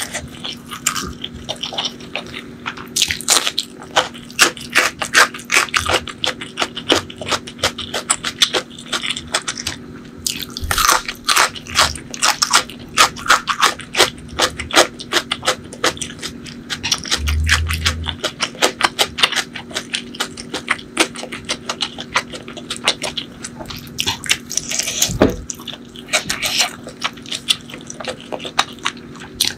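Close-miked chewing of a mouthful of rice and butter chicken eaten by hand, with many quick, irregular mouth clicks, over a faint steady hum.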